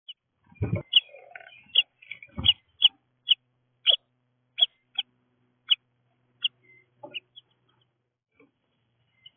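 A bird at a feeder giving a series of short, sharp high call notes, about two a second, thinning out near the end. Two dull thumps come under the first calls, about one and two and a half seconds in.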